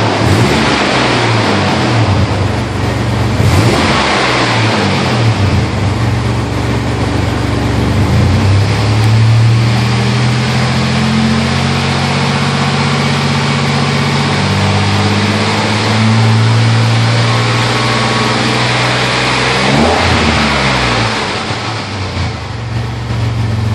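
Chevy Astro van's exhaust through a Magnaflow universal muffler, the engine idling and revved up and back down several times, with a longer stretch held at higher revs.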